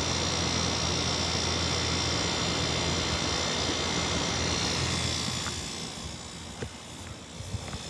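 Air conditioner condenser unit running with a steady hum and a high whine, which dies away about five seconds in; a few light clicks follow.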